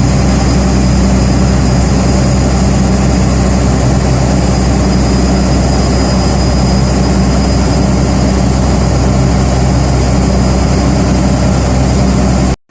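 A boat's engine running steadily, a loud low drone with a constant hum and hiss, unchanging.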